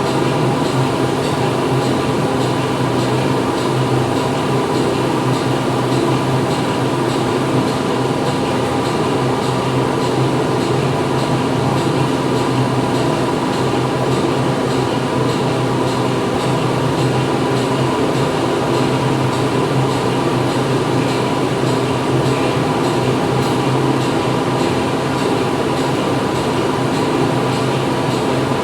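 Steady industrial machinery noise inside a factory hall: a constant mechanical hum with a low drone and a higher whine over a dense wash of machine noise, unchanging throughout.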